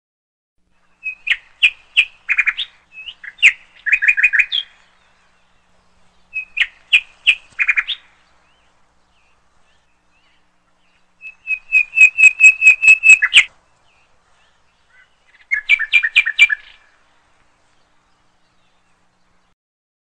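A songbird singing: several bursts of rapid, repeated chirping notes, each lasting one to four seconds, separated by silent gaps.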